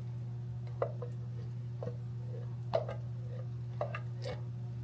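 Thick crushed tomatoes being poured from a can into a pot of reduced sauce: a few soft plops about a second apart over a steady low hum.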